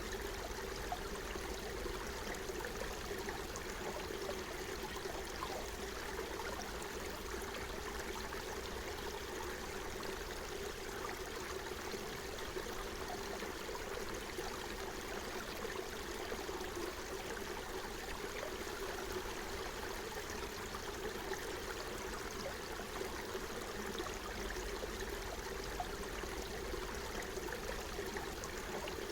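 Forest stream flowing over stones: a steady babbling rush of water.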